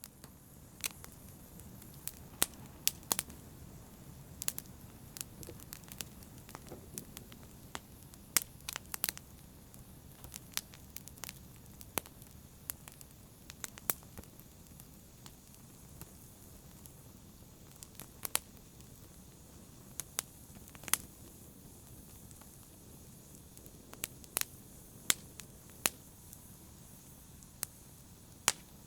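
Wood fire crackling in a fireplace: irregular sharp pops and snaps, a few a second, over a soft steady rush of flame.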